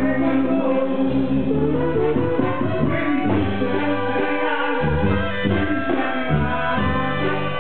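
Brass band music, horns playing a melody in long held notes over a low bass line.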